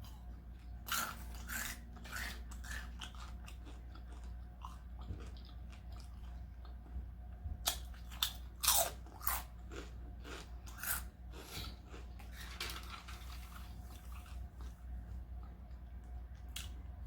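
A person biting and chewing tacos close to the microphone, in irregular bursts of mouth noises and crunches with short pauses between.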